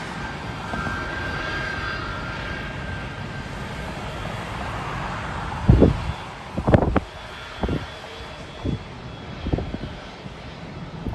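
Airliner's jet engines passing with a steady rush and a faint whine. In the second half, wind gusts buffet the microphone in several loud low thumps.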